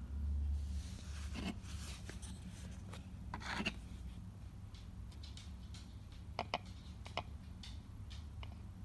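Faint handling noises: a few soft scrapes and rustles, then a couple of light clicks, over a low steady hum.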